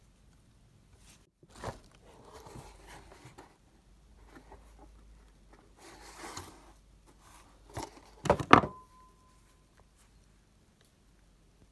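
Rustling handling noises and scattered knocks, then a sharp double metal clank about eight seconds in, which rings on briefly in a single tone.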